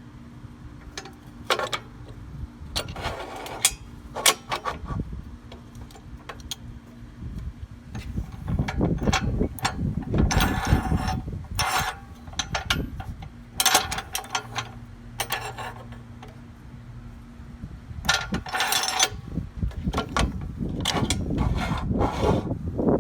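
Hand work on metal parts: irregular clicks, clanks and short scraping or rubbing bursts over a steady low hum.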